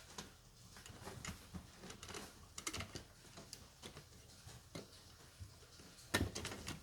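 Scattered light clicks and taps from handling, with a quick run of them near the middle and a louder clatter of several clicks about six seconds in.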